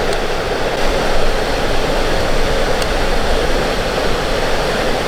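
Steady rushing of a small waterfall on the Sol Duc River.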